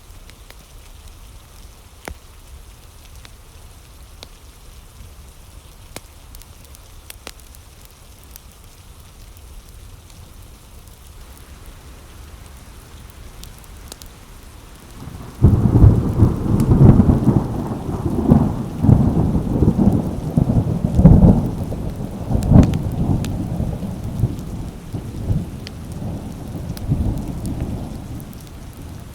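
Steady rain, then about halfway through a sudden loud thunderclap that rolls on in rumbling waves and slowly fades.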